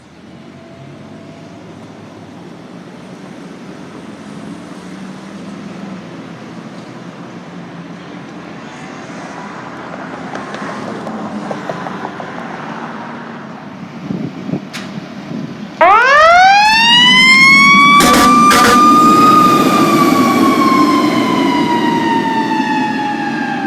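A low rumble grows steadily louder. About sixteen seconds in, a fire apparatus's mechanical siren winds up sharply from a low growl to a high wail, holds, then slowly drops in pitch as it coasts down. Two short, loud blasts cut in just after it reaches full pitch.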